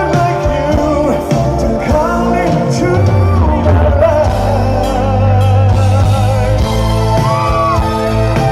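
Rock band playing a song with a lead vocal over sustained keyboard or guitar chords and a steady bass.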